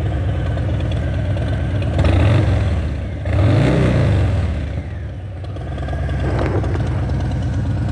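Harley-Davidson Deluxe's V-twin engine idling, blipped twice: a short rev about two seconds in and a bigger rev that rises and falls about three and a half seconds in, then back to idle.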